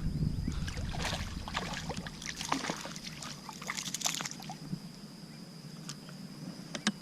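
A flurry of irregular clicks and knocks with light water sloshing, from handling on a fishing kayak, dying away after about four and a half seconds, over a faint steady high-pitched tone.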